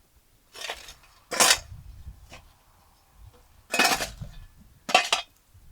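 Kitchenware being handled: dishes and utensils knocking and clinking, with four short, sharp clatters and a few lighter ticks between them.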